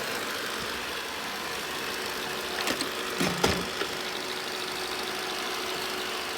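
Robot vacuum cleaner running, a steady whirring hiss from its suction fan and brushes, with a few short knocks about three seconds in.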